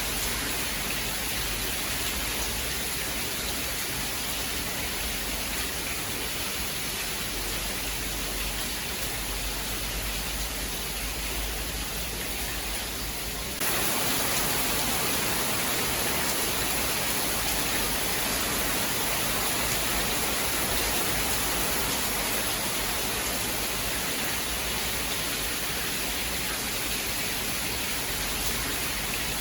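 Steady rain falling, a dense, even hiss with no distinct drops or thunder, which turns suddenly louder about halfway through.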